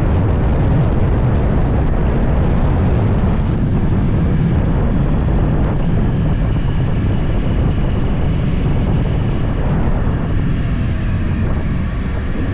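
Yamaha YZF-R1's crossplane inline-four running through a full Akrapovič exhaust, heard from on board while riding, with wind on the microphone. The level eases slightly near the end.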